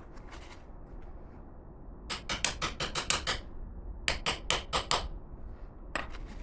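Hammer tapping in quick runs: about eight strikes, a short pause, five more, then one last tap near the end.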